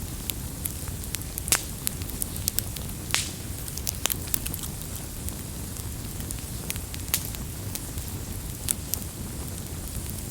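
Wood fire crackling: steady low burning noise with frequent irregular sharp pops and snaps, the loudest about a second and a half in, and a short hiss about three seconds in.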